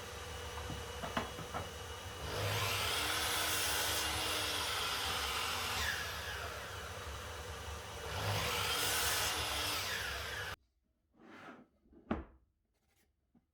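A woodworking power tool running with a steady hum, growing louder twice as timber is cut, its pitch sagging under load during each pass. It stops abruptly near the end, leaving a few light knocks and rubs.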